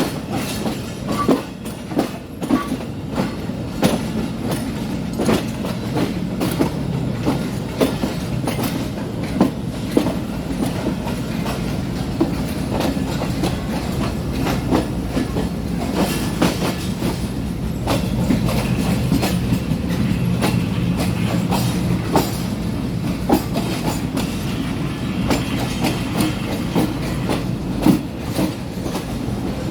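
Passenger train running, heard from aboard a coach: a steady low rumble with the wheels clicking and clacking over the rail joints.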